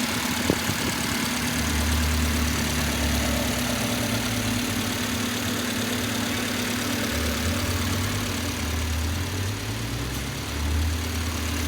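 Honda engine idling steadily with a continuous hum and hiss, after engine work and restoration. A single sharp click sounds about half a second in.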